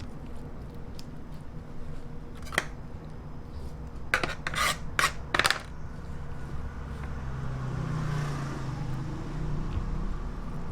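Food-prep handling sounds: one short rasping stroke, then four quick ones about a second later, over a steady low hum.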